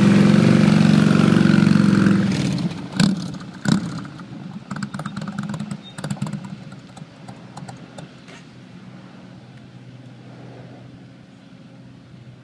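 Motorcycle engine running loudly, then dropping away about two seconds in and settling to a faint low hum. A couple of sharp clicks or knocks come through about three and four seconds in.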